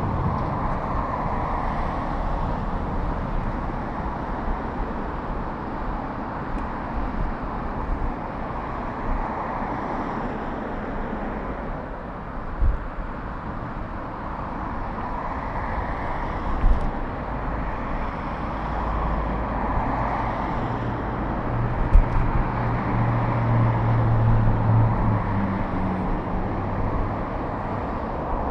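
City street traffic heard from a moving bicycle, under a steady rush of road and wind noise. A passing vehicle's low engine hum builds about two-thirds of the way through. There are a few sharp knocks along the way.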